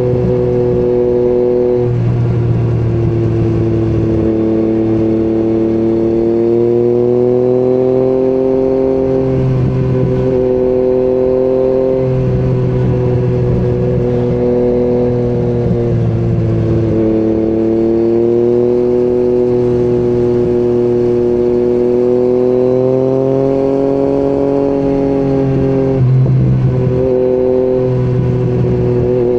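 Yamaha MT-09 inline-three engine with an Akrapovič exhaust running under load on the move, its revs climbing slowly and dropping back sharply a few times.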